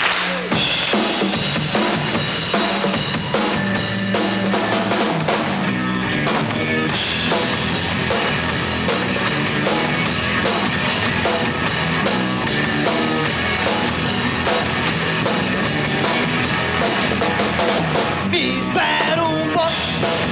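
Rock band playing the instrumental lead-in to a song live, led by a drum kit with bass drum and snare; the cymbals and upper end fill in more fully about seven seconds in.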